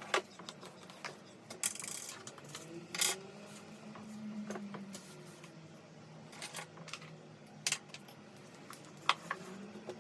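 Household objects being handled and put away: scattered light clicks and knocks, with two brief rustling or scraping noises early on.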